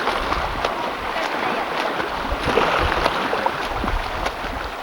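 Seawater splashing and lapping: a steady wash of noise full of small crackling splashes.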